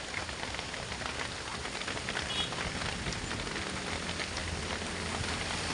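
Heavy rain hitting a truck as it drives, many small drop ticks over a steady low engine hum.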